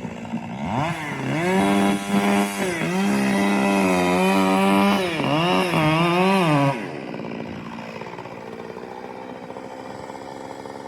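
Chainsaw revved up to full throttle about a second in and held high for about six seconds, with brief dips in pitch, then let back down to idle for the last few seconds.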